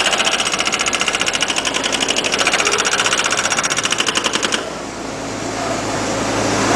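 A machine's rapid, even mechanical rattle that stops about four and a half seconds in, leaving a steady factory din.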